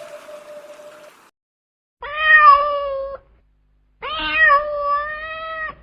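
A cat meowing twice: two long, drawn-out meows about two seconds apart, the second a little longer. In the first second the tail of a steady tone from the previous sound fades out.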